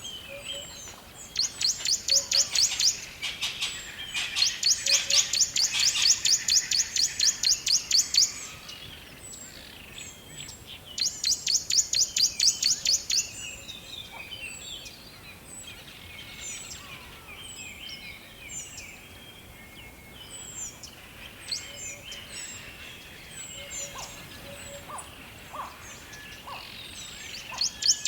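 Forest birdsong from several birds. The loudest sings bouts of a fast, evenly repeated high note, each bout lasting two to four seconds, three times. Other birds chirp with short high calls in between.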